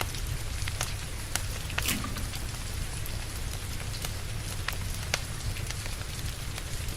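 Steady rain hiss with a crackling wood fire, sharp pops of burning logs scattered irregularly over a low rumble.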